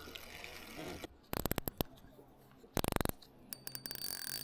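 Fishing reel ratchet clicking in three short bursts of rapid, evenly spaced clicks, as line is pulled off or wound in.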